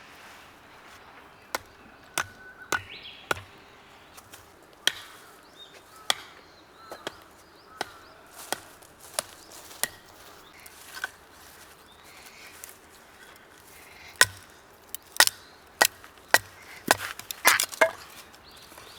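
A knife chopping into wood: a string of sharp, irregular wooden knocks that come faster and louder near the end.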